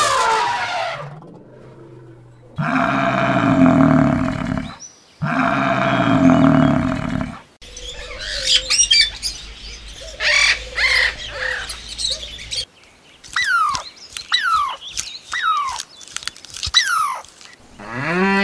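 A sequence of animal calls. First come two long, low calls of about two seconds each. Around ten seconds in, parrots squawk and chirp, then about five short falling whistles follow, and a deep drawn-out call begins at the very end.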